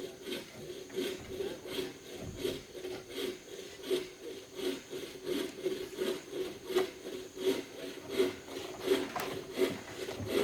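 Hand saw cutting through wood with steady, rhythmic back-and-forth strokes.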